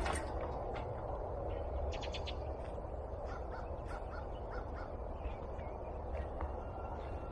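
A bird outdoors calling, a short call repeated about six times in quick succession midway through, over a steady low background rumble with a few sharp clicks.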